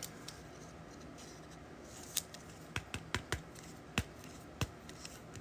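Trading cards being handled on a table: a faint room hum with a scattering of short clicks and taps, about six of them in the second half.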